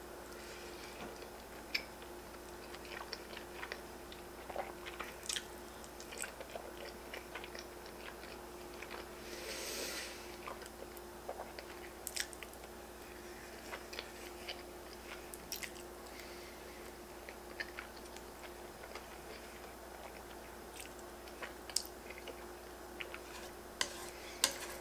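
Close-miked mouth sounds of a person chewing ramen noodles with bits of bacon, with many small wet clicks and a longer hiss about ten seconds in, over a faint steady hum.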